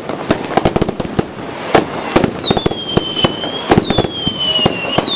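Fireworks display: a rapid run of sharp bangs and crackles, joined about halfway through by several whistling fireworks, each a high whistle that falls in pitch and then holds, overlapping one another.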